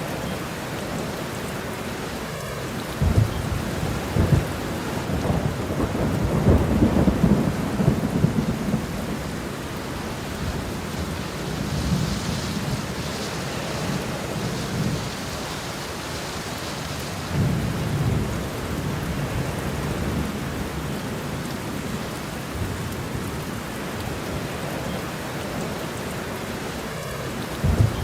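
Steady rain with low, rolling thunder. The longest rumble runs from about three to nine seconds in, and shorter ones come later, one near the end. The rain's hiss brightens for a few seconds in the middle.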